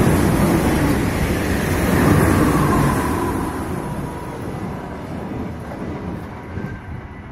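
Electric passenger train running beneath and pulling away along the track, its rumble loud at first and fading steadily as it recedes. A faint whine glides down in pitch about halfway through.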